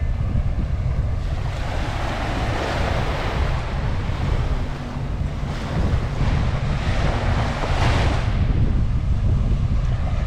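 Surf washing up on a sandy beach, swelling and fading twice as waves come in, with wind buffeting the microphone in a steady low rumble.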